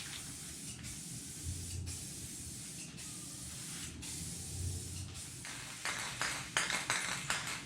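Aerosol can of clear coat spraying in a long steady hiss with a few brief breaks, then in shorter bursts near the end.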